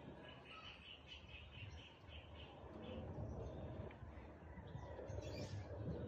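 A bird chirping faintly: a quick run of about ten short, evenly spaced notes in the first two seconds, with a brief higher call about five seconds in, over quiet outdoor background.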